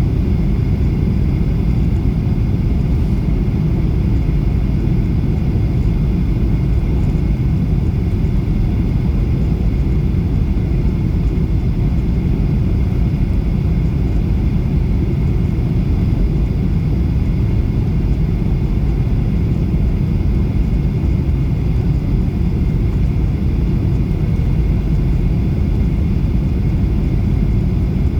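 Jet airliner noise: a steady low rumble of engines and rushing air with a faint steady high whine over it, unchanging throughout.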